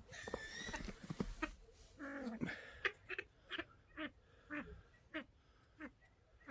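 Ducks quacking: a longer falling call in the first second, then a run of short calls about every half second.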